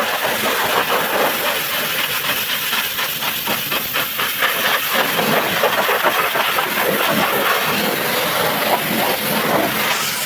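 Pressure washer spraying the truck engine: a loud, steady hiss of water jetting and spattering.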